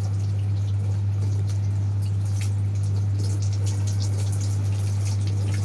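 Water from a garden hose running and dripping during a car wash, with scattered small splashes and ticks over a steady low hum.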